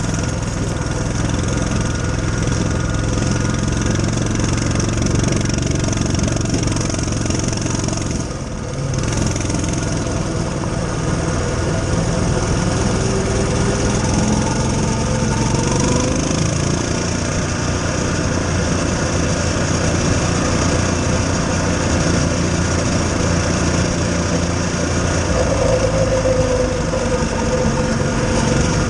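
Coleman CT200U-EXR mini bike's small single-cylinder four-stroke engine running steadily, with a brief drop in level about eight seconds in.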